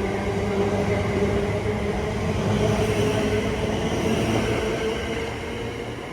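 A passenger train moving through the station, with a steady pitched hum over rail noise that fades near the end.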